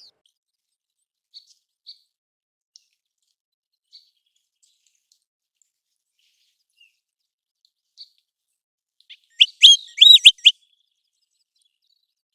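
American golden plover calling: a few faint, widely spaced short notes, then, about nine seconds in, a loud quick run of about five high whistled notes.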